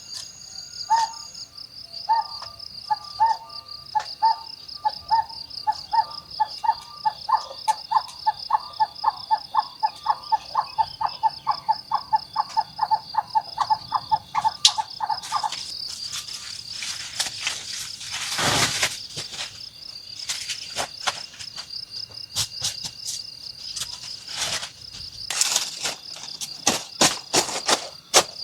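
Insects trilling in a steady, fast-pulsing high tone. Over the first half an animal calls in a long run of short repeated notes that quicken and then stop abruptly. After that, irregular sharp clicks and crackles take over.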